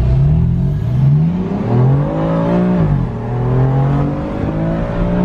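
BMW F80 M3's twin-turbo inline-six under hard acceleration, heard from inside the cabin: the engine note climbs in pitch, drops sharply with a quick dual-clutch upshift about three seconds in, then climbs again.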